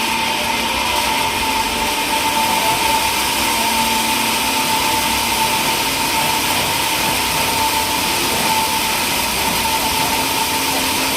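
Sawmill machinery running steadily: a constant high whine over a broad, even hiss, with no change in load.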